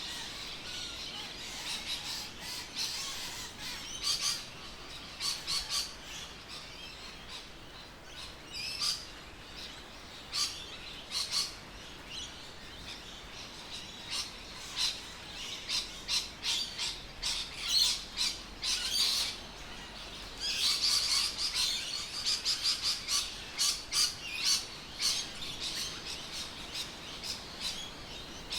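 Birds calling outdoors: many short, sharp chirps and squawks in irregular clusters, thinning out in the middle and coming thick and fast in the last third.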